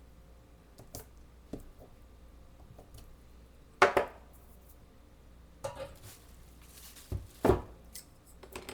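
Acrylic stamp block knocked onto the ink pad and paper on the craft table while stamping a butterfly: a few light clicks, then two sharp knocks, one about four seconds in and one near the end.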